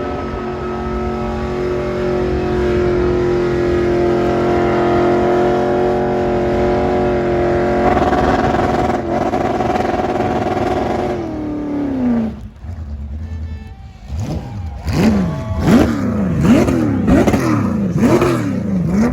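Car engine held at high revs for about eleven seconds during a burnout, then falling away, followed by about six sharp rev blips up and down near the end.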